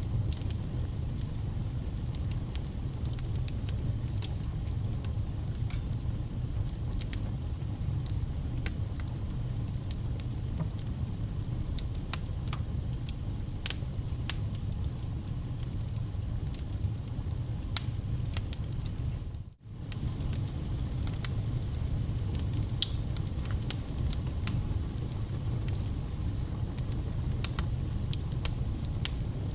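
Wood campfire burning, with sharp irregular crackles and pops over a steady low rumble of the flames. The sound drops out for a split second about two-thirds of the way through.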